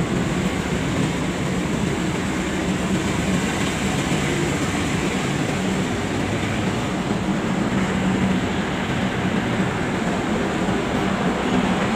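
Steady rumble of a diesel passenger train at the station platform, with a constant low engine hum underneath.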